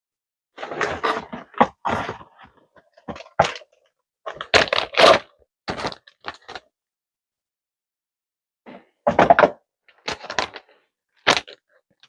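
Plastic bag rustling and crinkling in irregular bursts as lettuce is handled into it, with a few knocks and thunks. There is a pause of a couple of seconds before a final few bursts.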